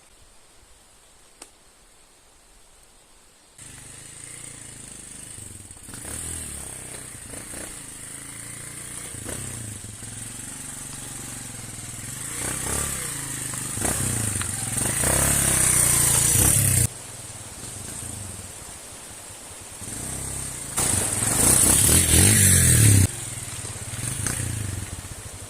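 Motorcycle engine running under way, with a steady low hum and wind-like noise. It starts suddenly a few seconds in and gets louder in two surges, each of which cuts off abruptly.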